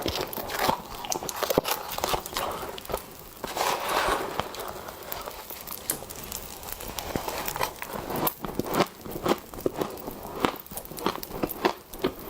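Soft, powdery freezer frost being bitten and chewed, with irregular crunching and crackling.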